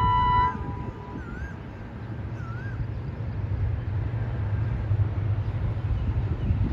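A diesel locomotive's horn sounding and cutting off about half a second in. Then a bird gives three short rising-and-falling whistles over a steady low rumble of an oncoming train that grows louder toward the end.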